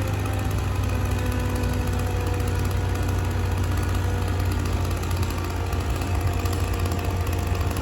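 An engine running steadily at idle, a constant low hum with a few faint steady tones above it.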